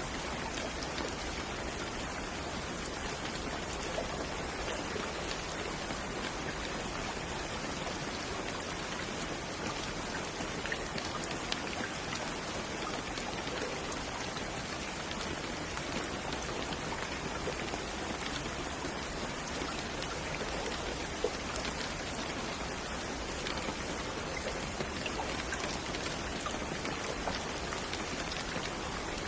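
Steady rain falling on a surface, a dense even hiss of many drops with scattered distinct drop ticks.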